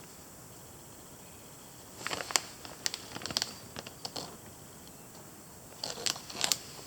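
The packaged saw sheath being handled: short bursts of rustling and clicking packaging, starting about two seconds in and again near the end.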